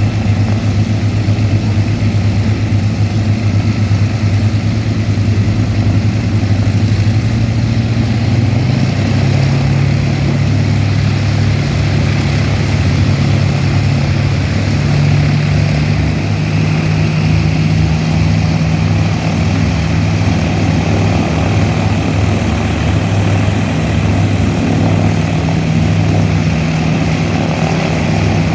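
Propeller-driven WWII fighter's piston engine running steadily, its pitch stepping up twice, about a third of the way in and again about halfway through.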